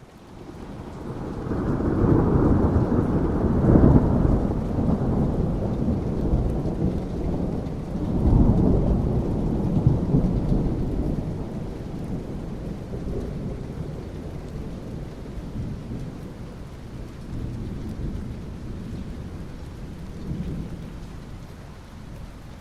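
A long roll of thunder over steady rain: it swells in over the first couple of seconds, peaks again about eight seconds in, then slowly rumbles away under the rain's hiss.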